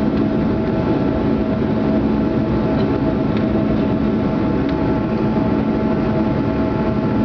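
Cabin noise of a Canadair CRJ-200's rear-mounted turbofan engines and airflow while climbing after takeoff: a steady rushing noise with several constant hums.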